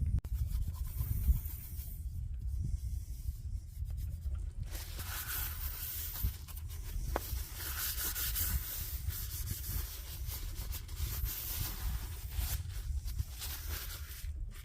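Rubbing and scraping strokes, starting about five seconds in and going on steadily until shortly before the end, over a continuous low rumble.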